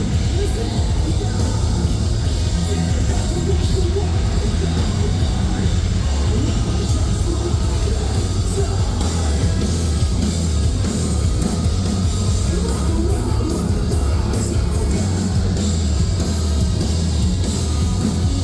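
Metalcore band playing live at full volume: heavy distorted guitars, bass and drums with cymbals, unbroken throughout.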